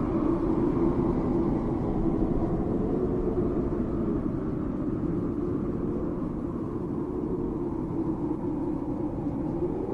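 Steady low rumbling drone with a held tone that wavers slowly in pitch and lifts briefly near the end, as in an ambient relaxation soundtrack.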